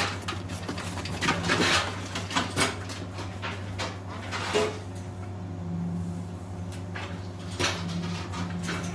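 Irregular clanks and rattles of metal gate and fence panels being handled and set in place, over a steady low hum.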